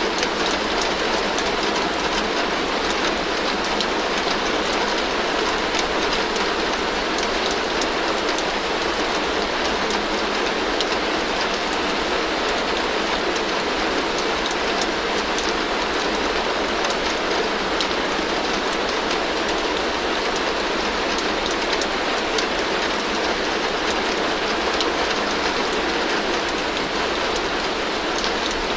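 Heavy rain falling steadily on a tin roof: a dense, even wash of drops with many fine ticks on the metal, holding steady throughout.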